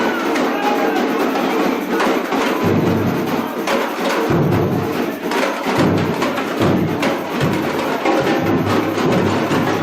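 A Brazilian bateria (drum and percussion ensemble) playing a steady, dense rhythm of drums and sharp, wood-block-like strikes. The low bass drums are mostly absent at first and come back in about three seconds in.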